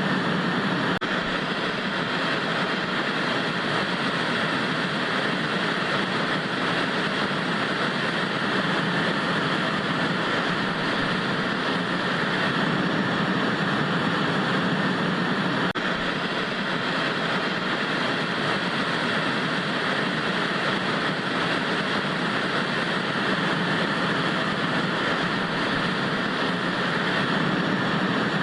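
Analog TV static: a steady, unchanging hiss, fuller in the lower middle than in the treble.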